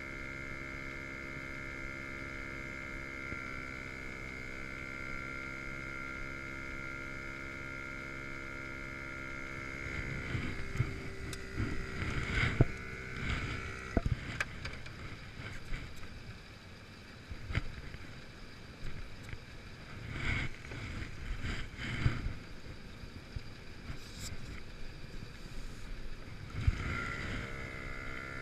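Portable air compressor running with a steady hum while inflating a freshly plugged tire. After about ten seconds the hum drops away and irregular knocks and clatter take over, and near the end the compressor motor spins back up to its steady hum.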